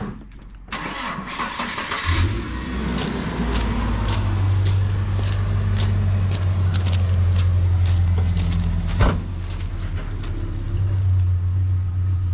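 A motor or engine starts about two seconds in and runs with a steady low hum, with scattered clicks and one sharp knock a little after nine seconds.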